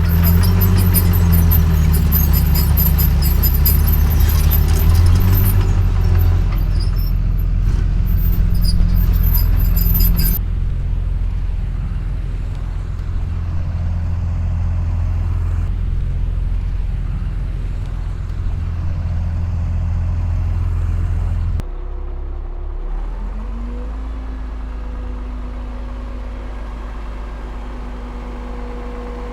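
Heavy diesel earthmoving machinery running at work, the engine sound of a bulldozer and dump trucks. The sound changes abruptly about ten seconds in and again about twenty-one seconds in. Shortly after the second change an engine speeds up and holds a higher steady pitch.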